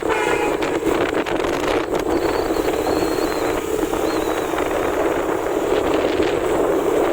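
Steady wind rush buffeting the microphone on a moving motorcycle, with the engine running underneath.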